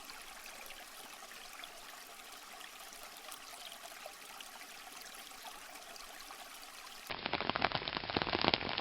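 Steady trickle of a garden pond waterfall. About seven seconds in it cuts abruptly to louder rain, a dense run of drops striking an umbrella.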